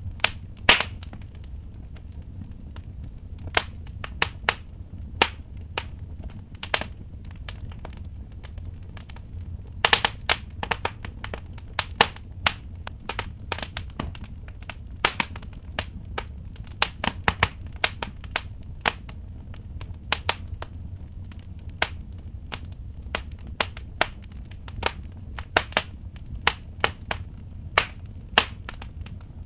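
Wood fire in a fireplace crackling, with irregular sharp pops, some in quick clusters, over a steady low rumble.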